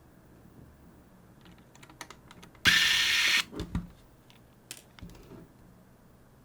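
Small clicks and taps of tools and small parts being handled while a camcorder recorder is taken apart, with one loud hiss lasting just under a second, about two and a half seconds in.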